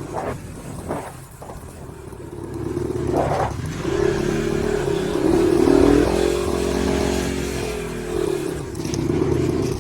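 Pit bike engine running under throttle while being ridden, softer for the first few seconds, then the revs rise to the loudest stretch about halfway through before easing a little. A few short knocks are heard over it.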